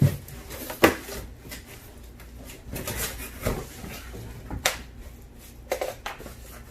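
Packaging and vacuum parts being handled during an unboxing: about five sharp knocks and clacks with rustling between them, as the stick vacuum's pieces are lifted out of the box.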